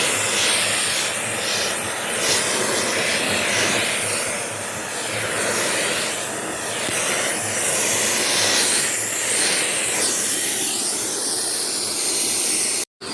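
Vacuum cleaner running steadily, a loud rushing of air whose upper hiss rises and falls. The sound cuts out for a moment near the end.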